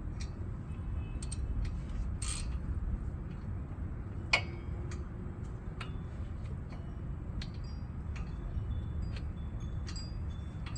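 Scattered metallic clicks and light clinks of hand tools and brake hardware, with one sharper metal click about four seconds in, over a steady low rumble.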